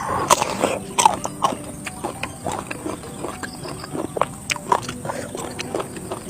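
Close-up mouth sounds of a person eating: wet chewing and lip smacking, a quick irregular run of small clicks and smacks.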